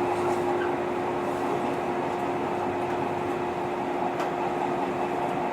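JR 115 series electric multiple unit heard from inside the passenger car, running steadily along the track: even wheel-and-rail noise with a steady hum.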